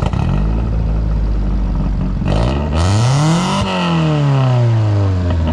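Modified car engine firing up abruptly and running loud. About two seconds in it is revved once, the pitch climbing for a little over a second, then dropping back toward idle over the next two seconds.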